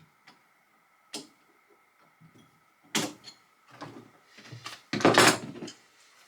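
Knocks and clatter of hand tools and plumbing parts being handled in a small cupboard: a few separate sharp knocks, then a louder, longer rattling scrape near the end.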